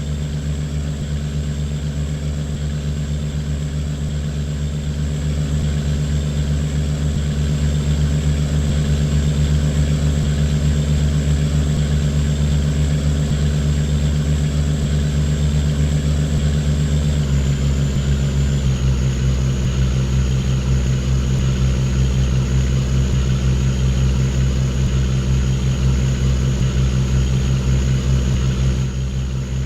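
Engine of an unladen cargo boat running steadily, its note stepping down slightly a little past halfway as the engine slows.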